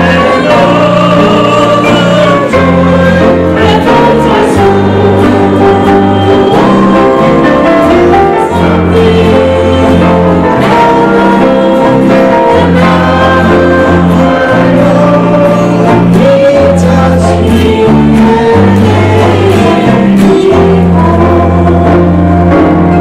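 Congregational worship song: voices singing together over a steady band accompaniment with held bass notes.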